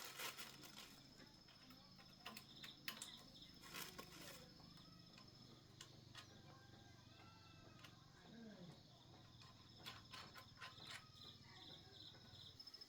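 Near silence: faint high insect chirping, pulsing near the end, with scattered light clicks and taps.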